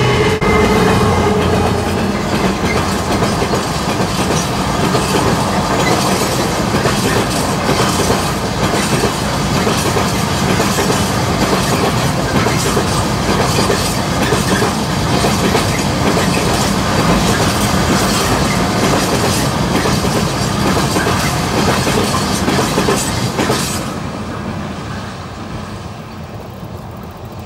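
A Class 66 diesel locomotive hauling a freight train passes close by: the locomotive first, then a long run of wagons, a loud rumble with a dense run of wheel clicks. About 24 seconds in, the last wagon clears and the sound falls away.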